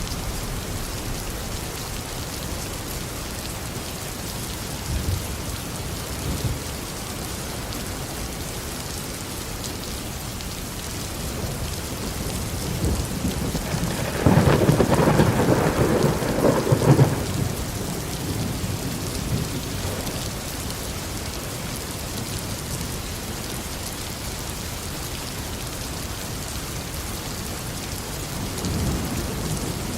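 Steady tropical rain falling, with a long rumble of thunder that builds about halfway through, peaks loudly for a few seconds and fades, and a softer rumble near the end.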